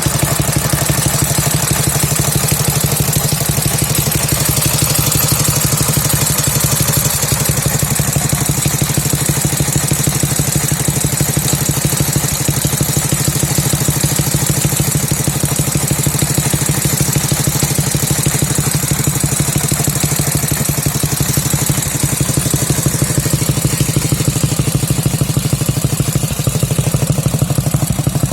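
Dnepr MT-11 flat-twin motorcycle engine idling steadily during its break-in run, with an even, fast exhaust beat.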